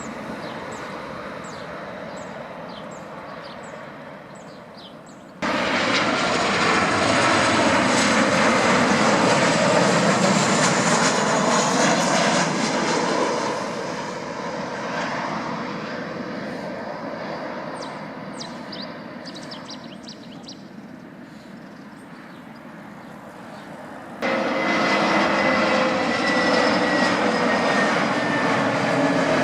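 Airplane engine noise from aircraft on or near the runway. It jumps abruptly louder about five seconds in, fades through the middle, and cuts back in loud near the end with a slowly falling high whine.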